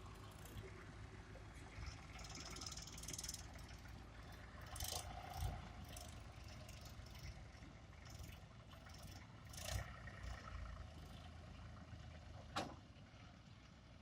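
Tractor engine running steadily under load, with a few short sharp knocks over it, the sharpest near the end.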